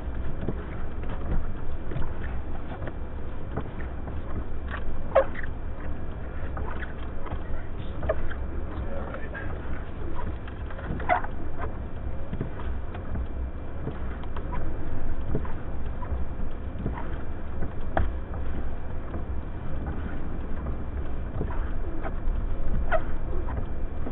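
Blizzard wind buffeting the microphone: a heavy, uneven low rumble that swells and dips with the gusts, with faint short squeaks scattered through it.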